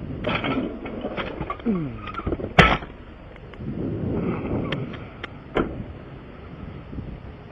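A sharp knock about two and a half seconds in, the loudest sound, among clattering handling noises, with a few lighter clicks a couple of seconds later.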